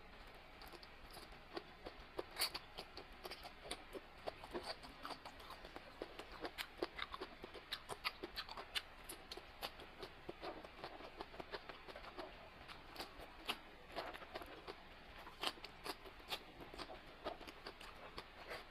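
Close-miked eating sounds: irregular crunching, chewing and small clicks, several a second.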